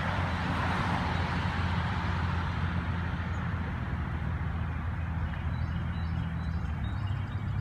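Motor vehicle running with a steady low rumble. A hiss fades away over the first few seconds, and a few faint high chirps come near the end.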